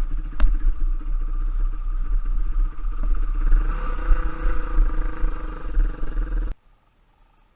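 Trail bike engine running under way with a heavy low rumble and a sharp knock shortly in, its note rising briefly in the middle; the sound cuts off abruptly about a second before the end.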